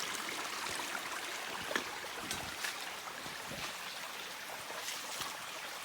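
Shallow freshwater river flowing over rocks, a steady running-water rush, with a few faint ticks.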